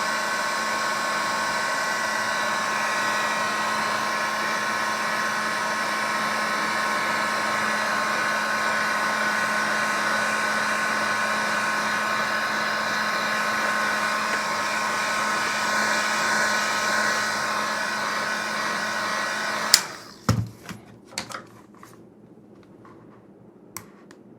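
Electric heat gun running steadily with a whirring fan and a whining motor, heating Kydex plastic to make it soft and mouldable. Near the end it is switched off with a click, and a few light clicks and knocks follow.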